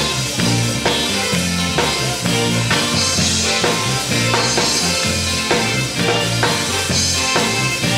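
Gospel quartet band music: a drum kit keeps a steady beat under a moving bass line, with no clear lead vocal.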